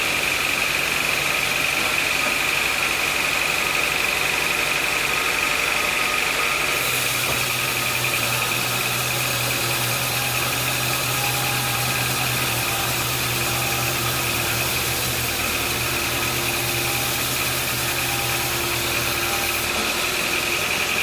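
Sawmill saw machinery running steadily with a constant high whine. From about seven seconds in until near the end, a deeper hum and a louder hiss join it, then drop away.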